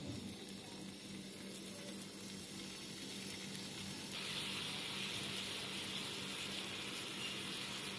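Marinated chicken tikka pieces sizzling in hot oil in a nonstick pan. The sizzle grows louder about four seconds in, once the pan is full of chicken.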